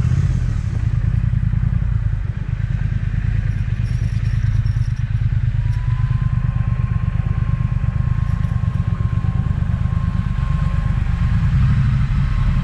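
Triumph Speed Twin's parallel-twin engine running steadily as the motorcycle is ridden, heard close from the bike. A thin, high, steady whine joins about halfway through.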